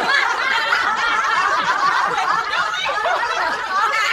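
Several people laughing together, a steady mix of chuckles and giggles with no break.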